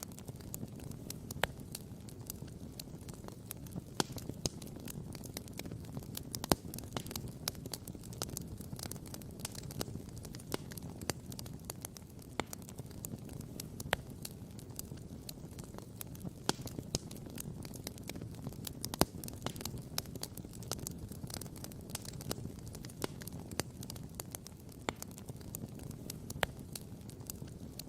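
Wood campfire crackling, with frequent sharp irregular pops and snaps over a low, steady wash of ocean surf.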